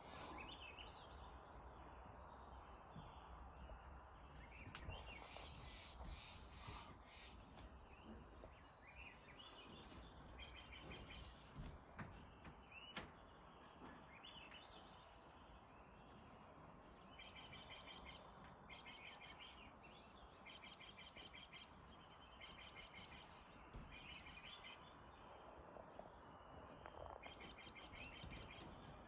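Faint outdoor ambience: a low steady hiss with small birds chirping in quick high-pitched series every few seconds.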